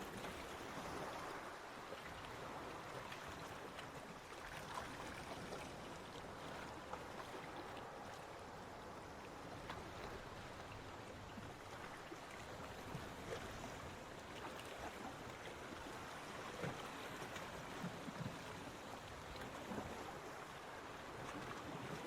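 Gentle waves washing on a beach: a steady wash of water with small splashes and mild swells.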